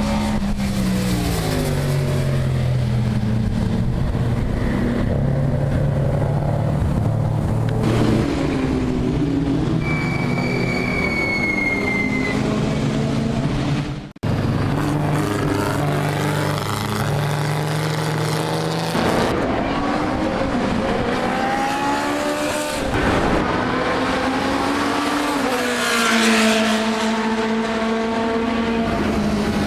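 Historic racing car engines running hard, their pitch climbing and then dropping in steps as they change gear. A high squeal lasts about two seconds around ten seconds in, and the sound breaks off abruptly about halfway through before the engines return.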